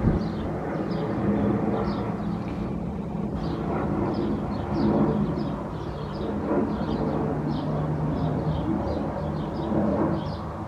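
Steady low drone of a Boeing 737's jet engines on approach, with small birds chirping over it.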